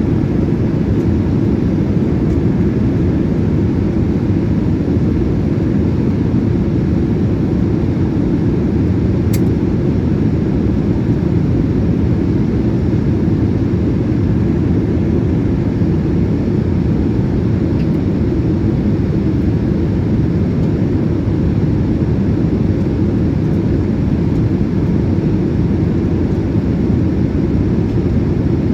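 Steady low rumble of cabin noise inside a Boeing 787-8 in flight: engine and airflow noise heard from a passenger seat.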